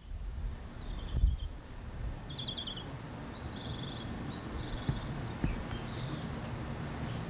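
A small songbird calling in short chirping trills, repeated every second or so, over a steady low rumble of outdoor noise. There is a brief thump about a second in.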